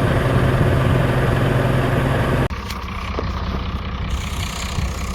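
Tractor engine running steadily with a strong low hum. About two and a half seconds in, an abrupt cut gives way to a quieter engine idling.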